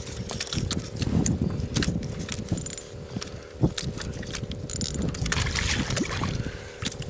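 Irregular knocks, scrapes and water splashing around a fishing kayak as a redfish is played alongside and landed.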